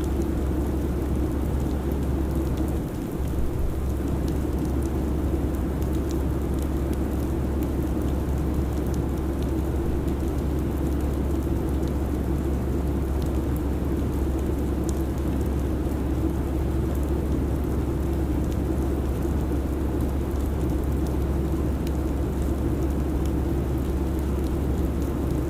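Steady airliner cabin noise in flight: an even, constant rumble with a strong low hum, dipping briefly about three seconds in.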